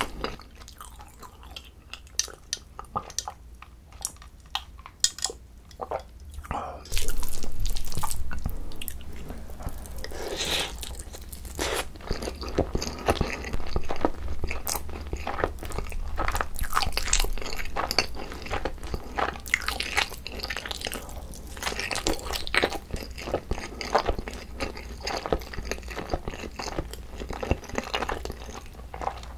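Close-miked chewing of seasoned boneless grilled chicken mixed with rice: wet, sticky chewing with many small clicks and smacks as mouthfuls go in one after another. About a quarter of the way in, a sudden louder noise lasts about two seconds.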